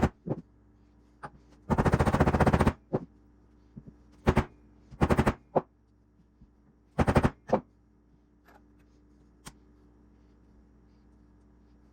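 Impact wrench hammering in short bursts: one of about a second near the start, then several shorter ones, a lone click, then it stops.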